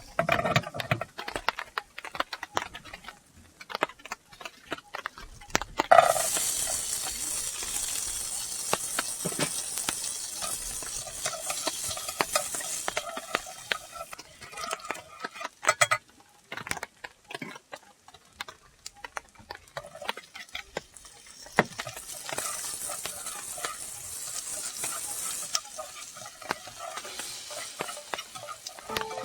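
Food sizzling in a hot frying pan, with scattered clicks and knocks of cooking utensils. The sizzle starts suddenly about six seconds in, as if food has just gone into the pan, and eases off after several seconds. A second sizzle comes later.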